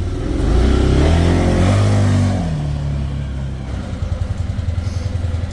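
A vehicle engine revs up, its pitch rising for about a second and a half, then drops back down and settles into a steady idle.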